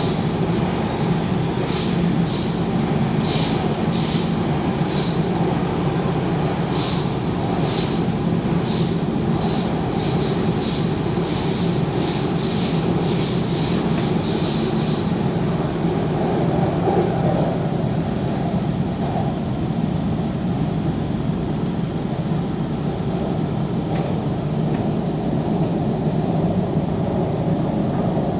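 Inside a Tseung Kwan O line K-Train metro car running under way, with a steady low rumble. Through the first half, high-pitched wheel squeal pulses about once or twice a second. It then gives way to a thin whine that slowly falls in pitch and fades.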